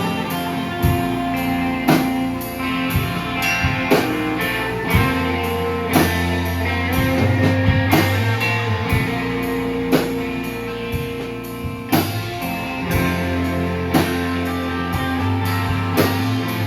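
Live band playing: guitar over long held bass notes, with a drum kit striking a heavy hit about every two seconds and lighter hits between.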